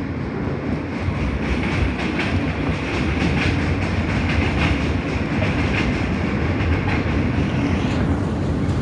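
New York City Subway F train running along the track, heard from inside the car: a steady rumble of wheels on rail with a higher hiss that falls away near the end.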